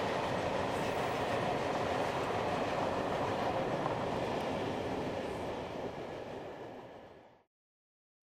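Freight train of loaded timber wagons rolling along the rails, a steady rumble that fades as the end of the train passes and then cuts off abruptly a little over seven seconds in.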